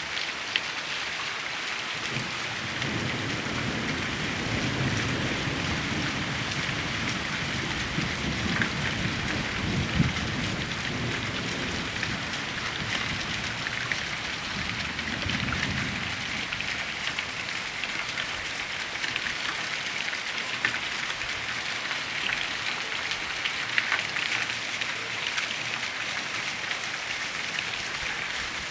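Steady rain pattering on a surface, dense with small drop clicks. A low rumble runs underneath for the first half.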